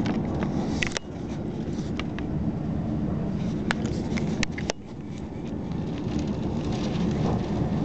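Passenger train running at speed, heard from inside the carriage: a steady low rumble of wheels on rails, with scattered sharp clicks and two brief dips in loudness, about a second in and near the middle.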